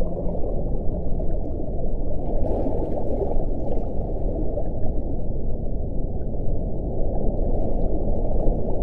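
Steady deep wind rushing, muffled and low-pitched with almost nothing in the higher register; a faint thin hiss rises over it briefly about a third of the way in.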